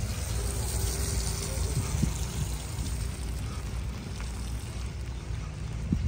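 Steady hiss of rain in wet weather over a low rumble, with a few soft thumps of footsteps.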